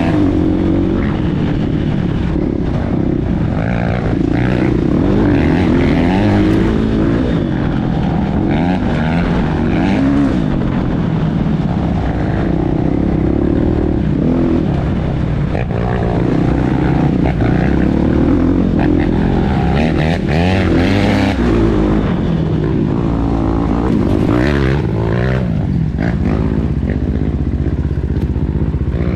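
Several motocross bike engines running hard at once, their pitch repeatedly rising and falling as the riders accelerate, shift and back off.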